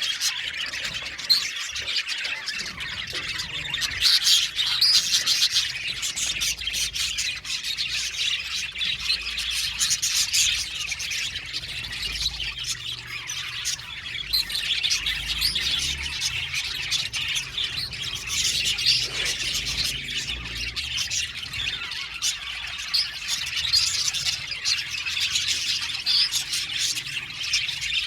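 A flock of budgerigars chattering and chirping together, a dense, continuous mix of many short calls and squawks.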